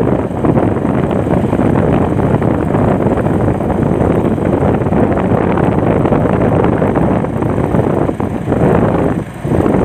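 Heavy wind buffeting the microphone during a ride, over a steady rumble of vehicle and road noise. The loudness dips briefly twice near the end.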